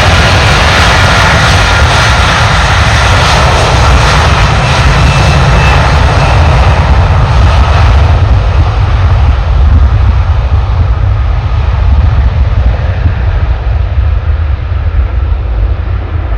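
Airbus A330-300 freighter's Rolls-Royce Trent 700 turbofans at takeoff thrust, a loud steady jet rumble with a high fan whine in the first few seconds. The high hiss fades after about eight seconds as the aircraft moves away, leaving the deep rumble.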